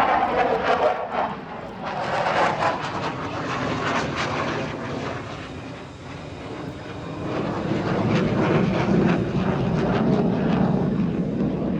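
J-10 fighter jet engines roaring past overhead. The roar is loud at first, fades about halfway through, then swells again and stays loud near the end.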